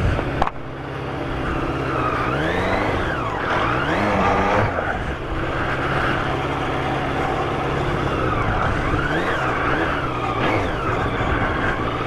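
Sportbike engine running while being ridden. It revs up and drops back twice, about three and nine seconds in, between stretches of steady running.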